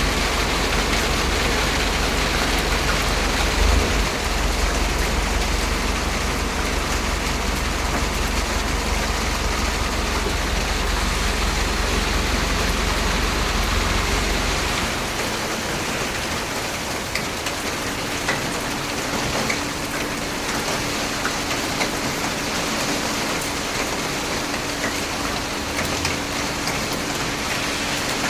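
Heavy rain pouring down steadily, with a few sharp drip ticks. A low rumble underlies the first half and stops about halfway through.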